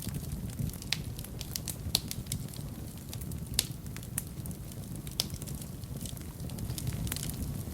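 Wood fire burning in a fireplace: a low steady rumble of flames under irregular crackles, with a few louder pops.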